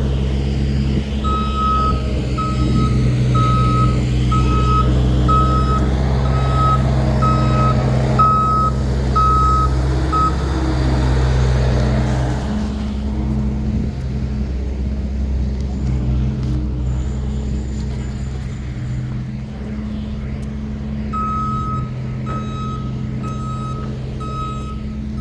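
Diesel construction machine running, its reverse alarm beeping about once a second. The beeping stops about ten seconds in and starts again near the end.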